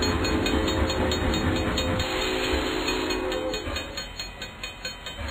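Train sound effect: wheels clacking in a steady rhythm, about three or four beats a second, under a long train horn. The horn dies away partway through, and the whole sound fades near the end.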